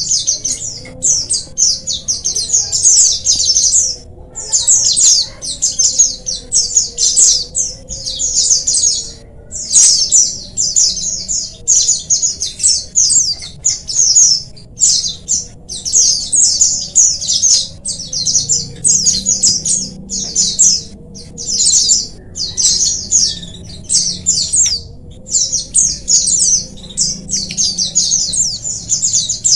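A colony of white-eyes (pleci) twittering together in rapid, high chirping phrases, many birds overlapping in a dense chorus with only brief pauses.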